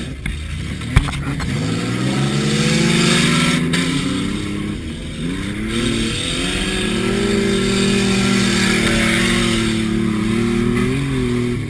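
Car engine revving hard, its pitch climbing and dropping again and again, heard from inside the cabin over a steady rushing noise. A single sharp knock about a second in.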